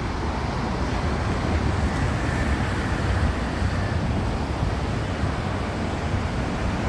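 Wind buffeting the microphone: a steady, rumbling outdoor noise with no distinct events.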